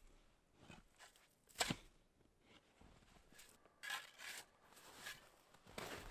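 Shovel digging into packed snow around a stuck Jeep's tyres: a few separate faint crunches and scrapes, the clearest about one and a half seconds in, then several more closer together near the end.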